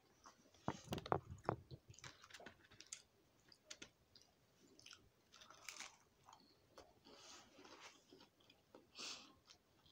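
A person chewing and biting food close to the microphone. A run of sharp crunches comes between about one and two seconds in, followed by quieter, scattered chewing clicks.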